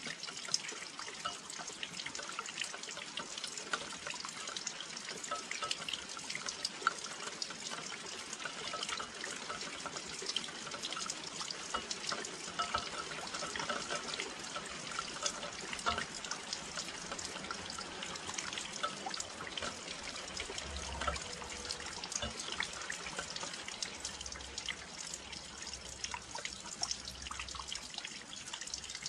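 Steady rain falling close to a windowsill, with many individual drops landing as dense, irregular ticks over an even hiss.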